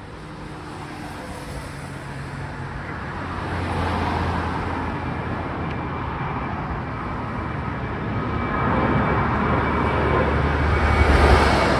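Jet airliner departing at takeoff power, its engine noise a steady rushing that grows louder throughout as it approaches, with a few high steady whining tones coming in during the second half.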